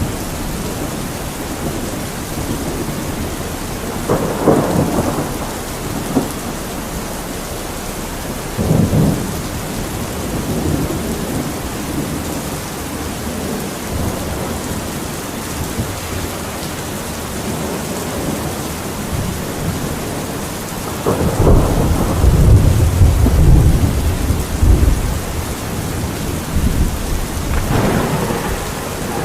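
Steady rain with several rolls of thunder. The longest and loudest rumble comes about three-quarters of the way through.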